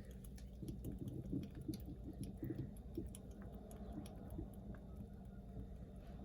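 Faint, irregular light taps and clicks of a detergent bottle and cap being handled as soap is put into the washer, over a low steady hum.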